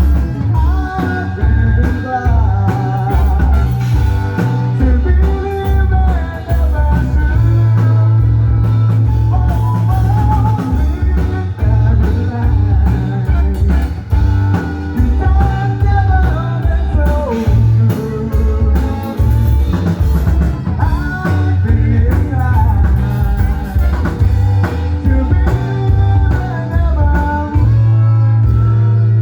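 Rock band playing: electric guitar lines over bass and a drum kit, with a heavy, steady low-end beat.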